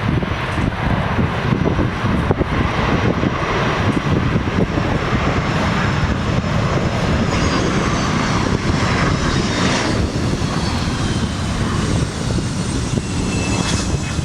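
Jet airliner engines running. A steady rumble lies under a high whine that slowly falls in pitch, growing stronger in the second half.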